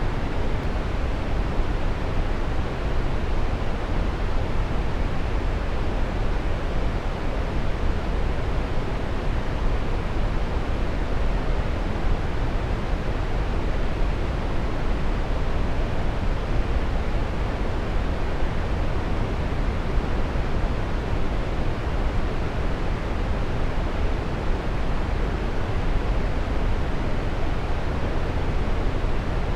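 Waterfall: a steady, unbroken rush of falling water, heaviest in the low rumble and thinning toward the hiss.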